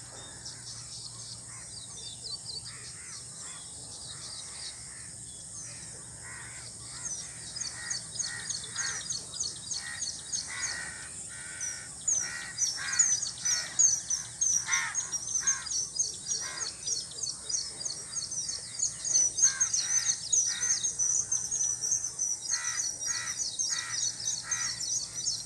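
Birds calling outdoors: a busy chorus of quick, high chirps that grows denser and louder about twelve seconds in, with harsher, lower calls repeating among them.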